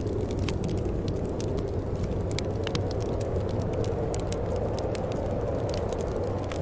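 Steady low wind rumble with a wood fire crackling over it in frequent, irregular small pops.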